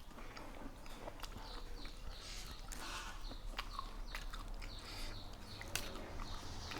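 A person chewing and biting food, mostly raw vegetables and seafood, with scattered small crunches and mouth clicks.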